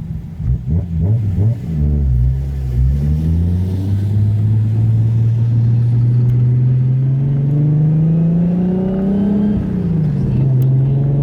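Nissan Skyline GT-R's single-turbo RB26DETT inline-six pulling at light throttle, kept out of boost. The revs waver for the first couple of seconds, then climb slowly and steadily, dip briefly near the end and climb again.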